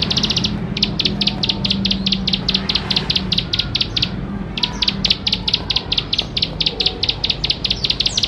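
A ciblek sawah (prinia) sings its rapid, churring song: a long run of short high notes at about five a second, with one brief pause a little past the middle.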